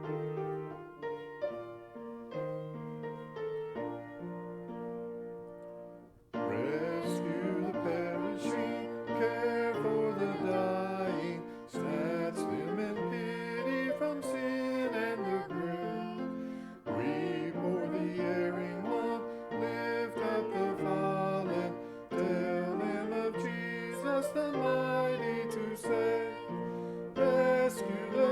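Instrumental church music: a piano starts alone with slow chords, then bowed strings join about six seconds in, playing a sustained melody over the piano.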